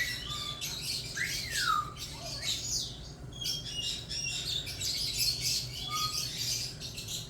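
High-pitched bird chirps and squeaks, scattered throughout, with one longer falling squawk about a second in.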